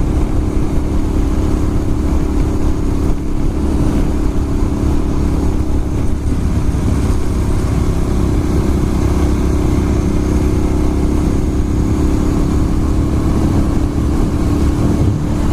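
Ducati Monster S2R1000's L-twin engine running steadily at cruising speed, heard from the rider's helmet mic, with no marked revving or gear changes.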